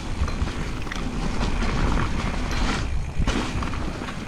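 Mountain bike rolling down a wet, muddy trail: a steady rumble of tyre and wind noise on the camera's microphone, with the bike rattling over the bumps.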